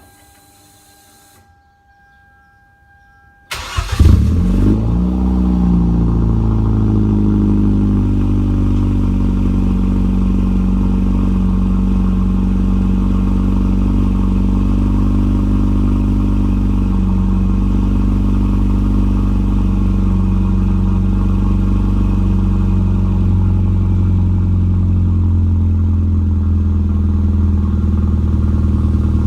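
Muffler-deleted Hyundai Genesis cold start: after a few seconds of a faint steady electronic tone, the engine cranks and catches about three and a half seconds in, flares loudly, then falls back and settles into a steady idle.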